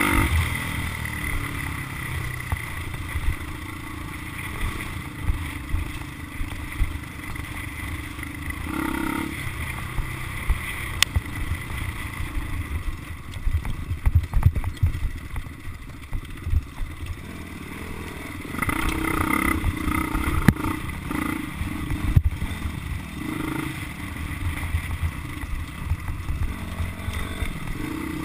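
Motocross dirt bike engine running, with several louder bursts of throttle.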